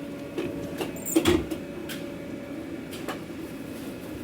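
Steady hum of food-truck kitchen equipment with scattered light clicks and knocks from takeout containers being handled, the loudest clatter about a second in.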